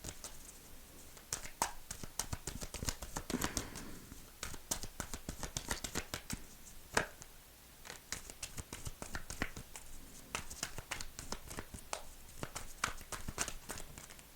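Animal oracle cards being handled, shuffled and laid out on a table: a run of soft, irregular card flicks and taps.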